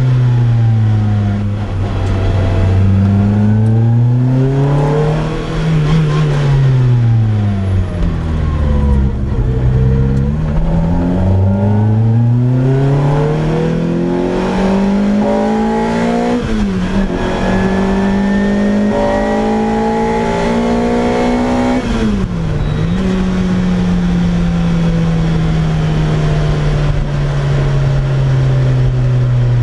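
Naturally aspirated four-cylinder engine and loud exhaust of a 2004 Lotus Exige Cup under way. The engine revs up and drops several times, shifting up sharply twice in the middle while climbing in pitch. It then eases off with a slowly falling note near the end.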